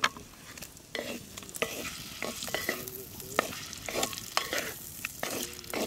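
Paneer cubes frying lightly in butter, sizzling softly while a wooden spatula stirs them, with irregular clicks and scrapes of the spatula against the pot.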